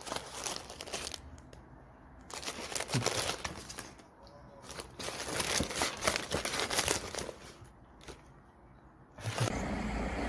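Crinkling and rustling, like paper or plastic being handled, in three or four bursts of a second or two each with quieter gaps. A steady low hum comes in near the end.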